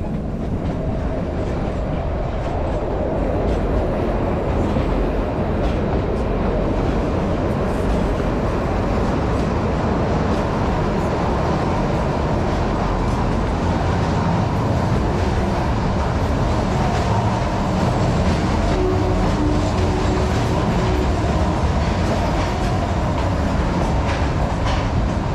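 Kalka–Shimla narrow-gauge toy train running on the line: a steady rumble and rattle of the carriages on the rails.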